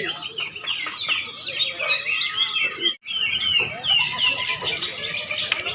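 Many caged songbirds singing at once at a bird-song contest, a dense chorus of overlapping chirps and trills. The sound breaks off for an instant about halfway, then the chorus resumes.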